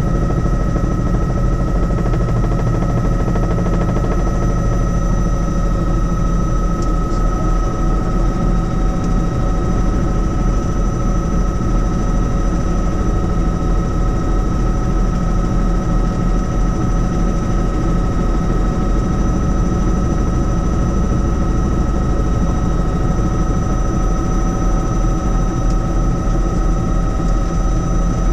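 Helicopter running steadily: a fast, even beat of the rotor blades under a steady high-pitched turbine whine.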